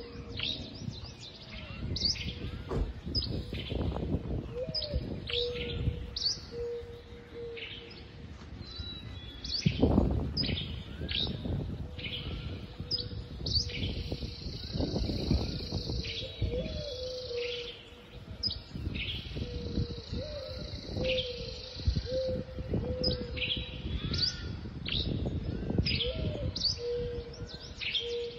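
Small birds chirping with many quick, downward-sliding notes, repeated throughout, over wind gusting on the microphone; the strongest gust comes about ten seconds in. A low, steady whistle-like tone comes and goes underneath.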